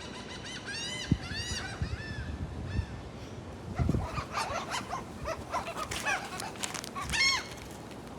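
Seagulls calling: a string of short, arched squawks, then from about four seconds in many birds calling over one another. A couple of low thumps come through near the start and around four seconds.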